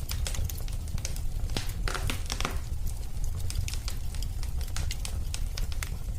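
Wood fire crackling in a fireplace: a steady low rumble of flames with irregular sharp pops and snaps, a quick flurry of them about two seconds in.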